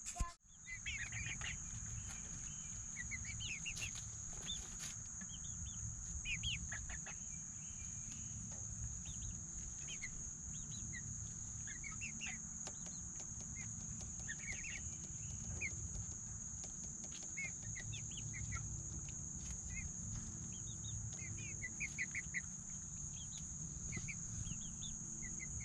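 Chickens clucking softly on and off in short calls, over a steady high trill of crickets.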